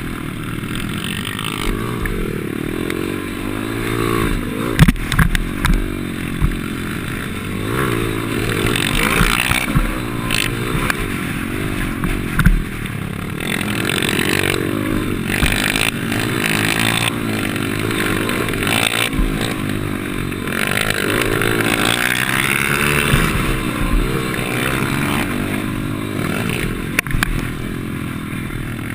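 Pit bike's small single-cylinder engine revving up and down over and over as it is ridden hard round a track. Several sharp knocks and clatters break in, the loudest about five seconds in.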